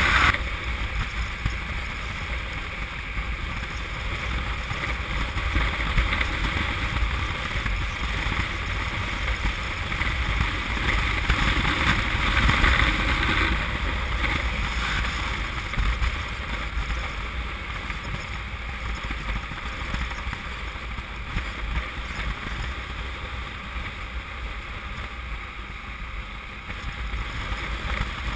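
Wind rushing over the microphone of a moving motorcycle, with the small twin-cylinder engine of a Honda CM200T running steadily underneath at road speed.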